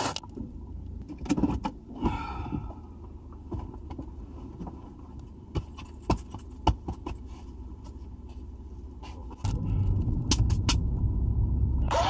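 Keys jangling and clicks and knocks of handling inside a car cabin, then about three-quarters of the way through a car engine starts and runs steadily at idle.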